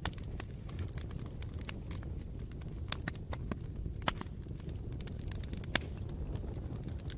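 Campfire burning: a steady low rumble of flames with irregular sharp crackles and pops of burning wood, the loudest pops about four and six seconds in.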